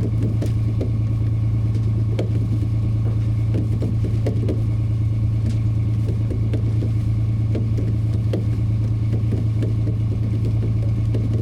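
Boat engine running steadily with a low, even drone, small clicks and rattles over it.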